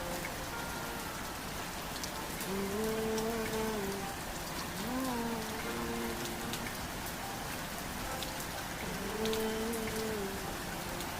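Steady rain falling on a surface, with scattered sharp drop ticks. Three times, a few held, slowly bending notes of a slowed song rise faintly over it.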